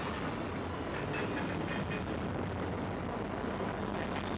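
Freight train passing: a CN diesel-electric locomotive's engine running under a steady rumble of steel wheels on the rails, with a few faint clicks of wheels over rail joints.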